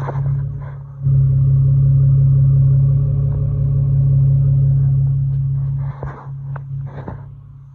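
Exhaust of a 2017 Nissan Maxima's 3.5-litre V6 idling with the rear mufflers deleted, so it is essentially a straight pipe with only the factory resonator. It makes a steady deep rumble that gets markedly louder about a second in.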